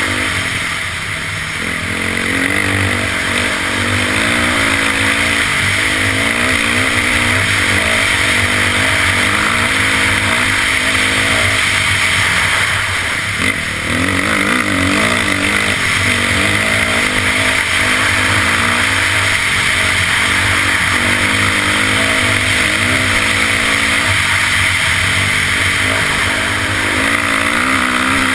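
Dirt bike engine running while riding, its pitch rising and falling over and over as the throttle opens and closes, with a short drop in level about halfway through.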